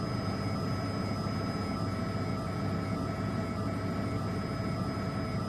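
Steady helicopter engine and rotor noise heard from inside the cabin: an even low rumble with a constant high whine.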